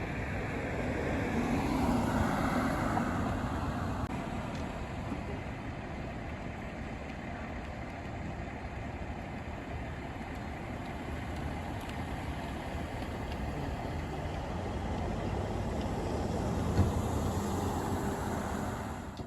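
Road vehicle noise, engine and tyres on pavement, swelling as a vehicle passes about two seconds in, then a steady rumble of traffic. No siren is heard.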